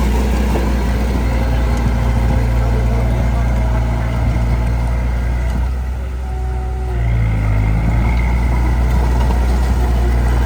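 Heavy-equipment diesel engine running under load. It eases off briefly about six seconds in, then revs back up.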